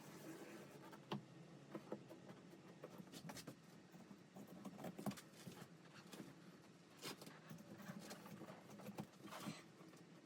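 Faint, scattered clicks and short rustles from hands working on a truck seat's upholstery and plastic parts, over quiet room tone.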